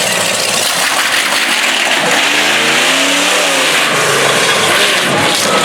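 A motor vehicle engine revs up and back down once, about two seconds in, over a steady loud wash of noise.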